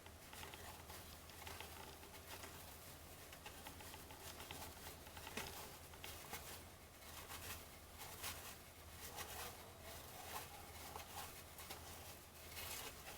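Baseball cards being handled and flipped through by hand: faint, irregular soft clicks and slides of card stock, over a low steady hum.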